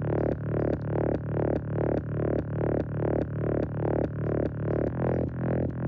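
Synthesizer bass line from a house track, playing an even pulsing pattern of about four notes a second.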